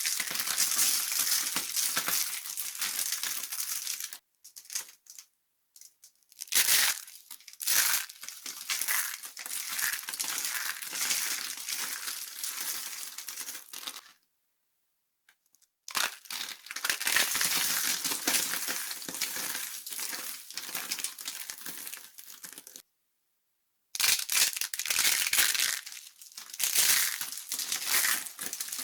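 Dry soap being crushed and crumbling, a dense crunching crackle. It comes in several long stretches separated by short silent gaps.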